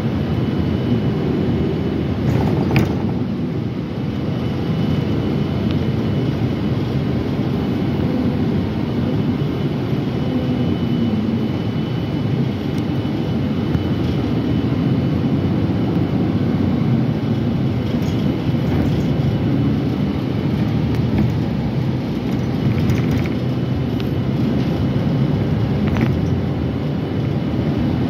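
Steady low rumble of a moving metro train heard from inside the car, with a faint steady whine and a few short clicks or rattles along the way.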